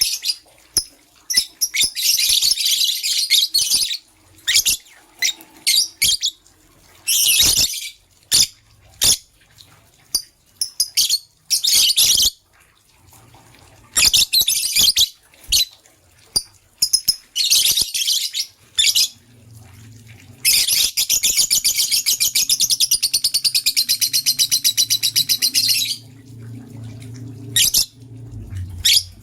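Lovebirds chirping in quick, sharp bursts, with a long run of rapid chattering about two-thirds of the way through. A faint low hum sits underneath in the second half.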